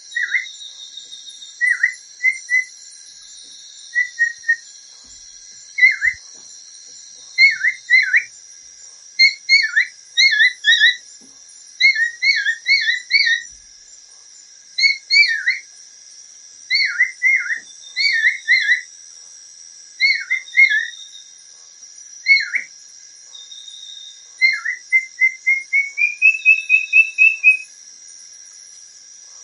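A bird giving clear whistled notes, singly or in quick runs of two to four, most sliding downward, with a rising run of notes near the end. A steady high-pitched insect-like drone runs underneath.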